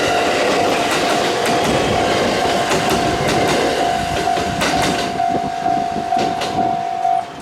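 Train running past with wheels clattering over rail joints, under a steady high tone that stops shortly before the end.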